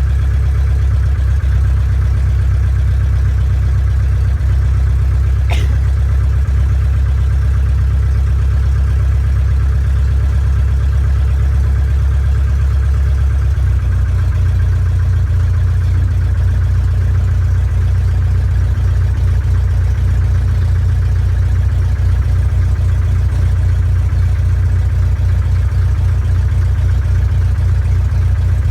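Small airplane's engine and propeller running steadily, a loud low drone heard from on board. The engine note shifts slightly about fourteen seconds in, and there is one brief sharp click about five seconds in.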